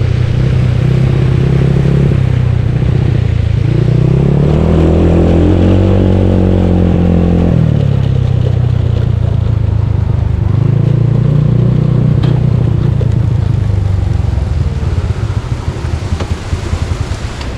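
Yamaha Mio scooter with a bored-out engine running while being ridden, its pitch rising as it accelerates about four seconds in, dropping sharply near eight seconds, then rising again and easing off toward the end.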